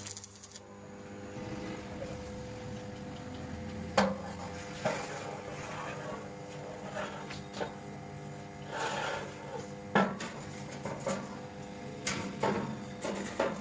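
Scattered knocks and clanks of hard objects being struck and handled, two of them much louder than the rest, over a steady hum.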